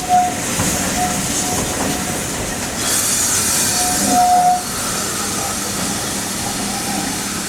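Steam train on the move with steam hissing, and a few short high-pitched squeals, the longest and loudest about four seconds in.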